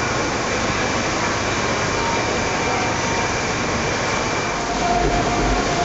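Steady hum and hiss of a 200 Series Shinkansen standing at the platform with its on-board equipment running, under a few faint steady tones. A deeper low rumble comes in near the end.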